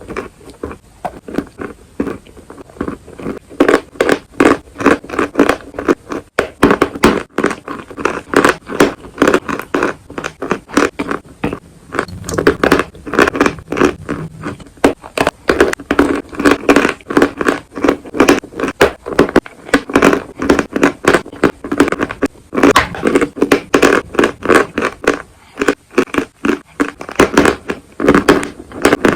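Close-miked biting and chewing of hard, crunchy chalk-like pieces: a dense run of crisp crunches several times a second, broken by a few short pauses.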